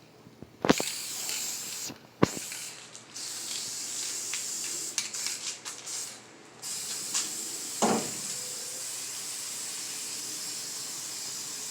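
Spray paint hissing out in long bursts: it starts with a sharp knock just under a second in, stops briefly twice, and has another knock near the end. The paint is being sprayed open full throttle over rust on a truck bed, not misted in short passes.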